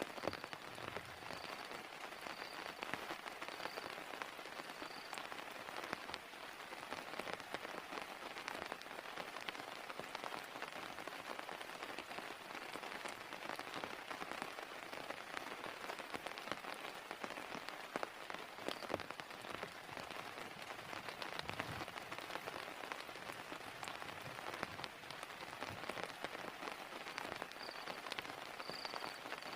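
Heavy rain falling steadily, with the sharp ticks of individual drops landing close by.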